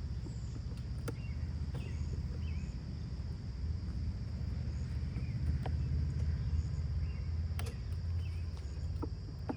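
Steady low rumble under a thin, steady high insect trill, with scattered light clicks and knocks and a few faint chirps.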